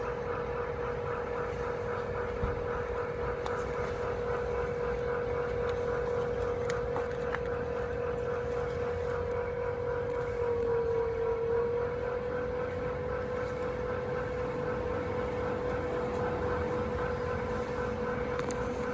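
Fujitsu room air conditioner outdoor unit running with a steady whining hum, the abnormal noise it has developed. The pitch sags briefly about halfway through, then recovers.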